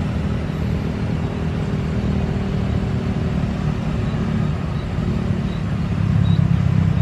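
A low, steady rumble that grows somewhat louder about six seconds in.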